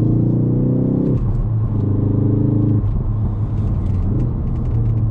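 The Ford Focus ST's 2.3-litre turbocharged four-cylinder engine pulling under throttle, heard inside the cabin with road rumble beneath. The engine note drops away briefly about a second in, comes back for another second, then settles to a lower steady drone.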